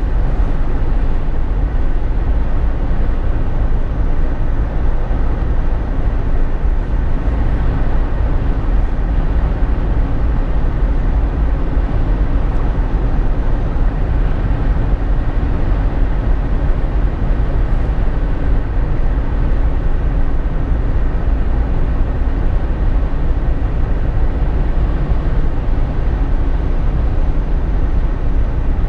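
Steady interior drive noise in a Jeep Wrangler JK's cabin at road speed: engine, tyres and wind blended into one even, deep rumble with a faint steady hum, unchanging throughout.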